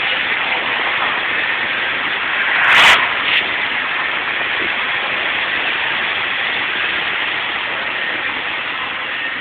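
Steady rush of floodwater gushing, with one short, loud burst of sound about three seconds in.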